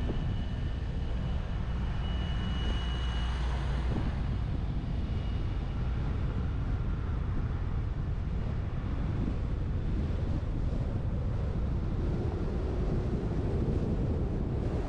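Wind rush and road rumble from a moving truck picked up by a roof-mounted action camera, a steady low, noisy rush that cuts in suddenly at the start.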